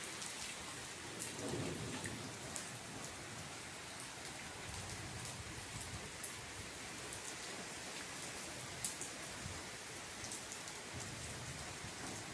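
Steady rain falling, an even hiss with scattered sharp drop ticks, and a brief low rumble about a second and a half in.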